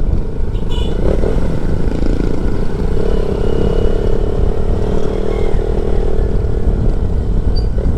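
Motorcycle engine running on the move, under heavy wind rush on the microphone; a steadier engine drone holds from about three seconds in until near the end.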